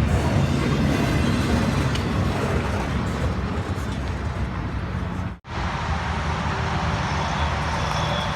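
Freight train rolling past with a steady rumble of wheels on rails. The sound drops out abruptly for an instant about five seconds in, then a similar steady rumble carries on.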